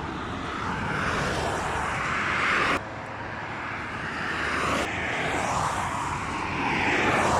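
Vehicle road noise: a steady rushing hiss that swells and fades as traffic goes by. The level drops suddenly about three seconds in and rises again about two seconds later.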